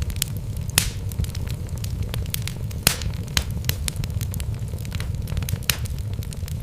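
Wood logs burning in a fireplace: a steady low rumble of flames with irregular sharp crackles and pops. Two louder snaps come about a second in and near three seconds.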